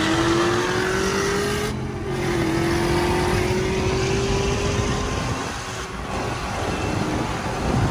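Dodge Charger Hellcat's supercharged 6.2-litre V8 at full throttle, heard from inside the car. The engine note climbs steadily, dips briefly about two seconds in at an upshift, then climbs again. Around six seconds in it gives way to another car's engine, also heard from inside.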